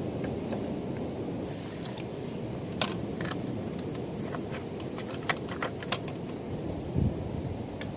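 Steady wind and surf noise at a beach at night. Several sharp clicks and taps are scattered through it, and there is a single low thump about seven seconds in.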